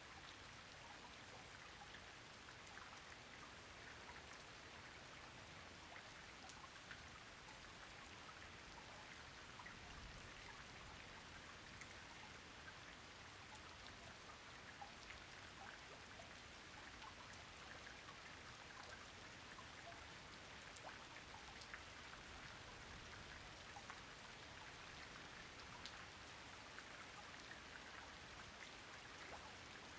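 Faint, steady rain, with many separate drops ticking through an even hiss.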